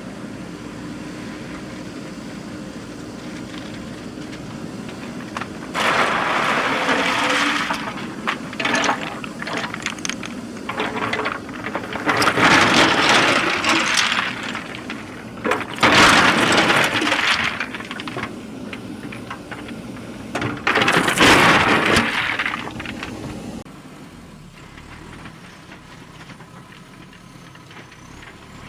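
JCB 3DX backhoe loader working: the diesel engine runs steadily, broken by four loud bursts of crunching and scraping, about six, twelve, sixteen and twenty-one seconds in, as the machine digs or dumps earth and stones. It is quieter for the last few seconds.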